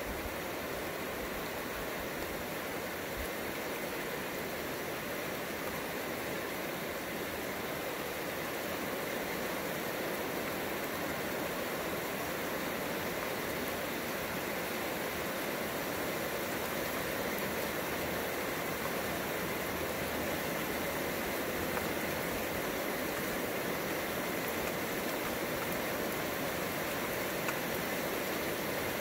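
Rain falling steadily, an even hiss that grows slightly louder toward the end.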